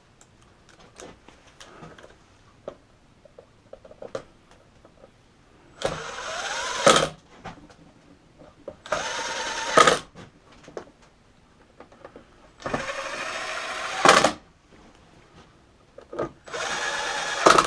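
Cordless screw gun with a Phillips bit driving screws home in four short runs of about a second each, the motor spinning up and stopping each time; light clicks of handling between the runs.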